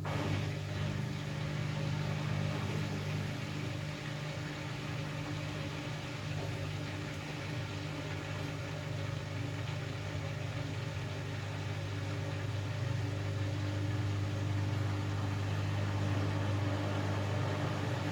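Hoover Axi washing machine running with a steady motor hum that holds one pitch, under a faint hiss.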